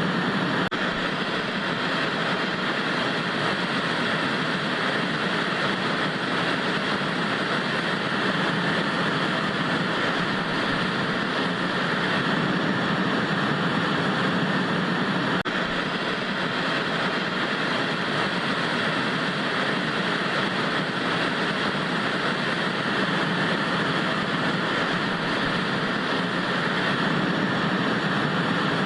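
Steady, unchanging hiss of analogue TV static (white noise from an untuned television).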